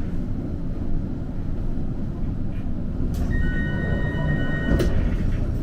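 Steady low rumble inside a Kagoshima City tram car. About three seconds in, a click is followed by a short electronic tone lasting about a second and a half, which ends with another click.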